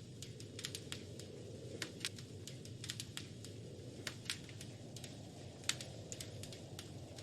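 Wood fire in a fireplace crackling: irregular sharp pops and snaps, several a second, over a steady low rumble of the burning logs.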